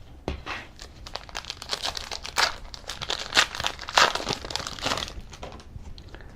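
Plastic-foil trading card pack wrapper being torn open and crinkled: a dense run of crackles that dies away about five seconds in.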